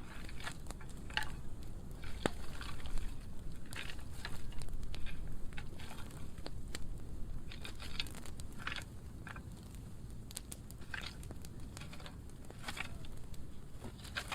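Dry pruning-wood burn pile burning, with irregular crackles and sharp pops over a low steady rumble.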